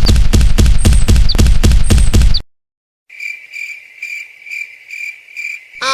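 A loud rapid pulsing, about five beats a second, cuts off abruptly a little over two seconds in. After a moment of dead silence comes cricket chirping: a steady trill pulsing about three times a second.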